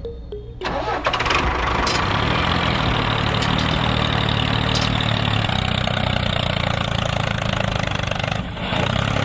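An engine starting about a second in and then running steadily, dipping briefly near the end.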